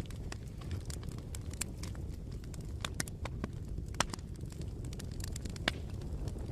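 Campfire crackling: irregular sharp pops and snaps, a few louder ones standing out, over a steady low rumble.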